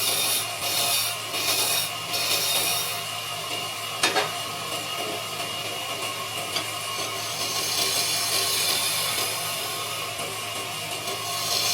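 Wood lathe running with a steady motor hum, while a turning tool cuts the spinning wood in hissing, scraping passes: several short passes in the first few seconds, then a longer one later. A sharp click about four seconds in.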